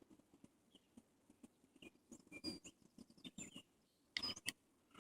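Faint, irregular clicks, taps and rustles of hands handling a wooden beehive frame, with a quick cluster of sharper clicks about four seconds in and a few faint, brief high chirps.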